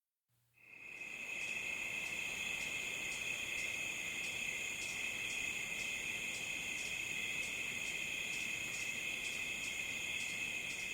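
Crickets chirping, a continuous high trill with a faint regular beat about twice a second, fading in under a second in.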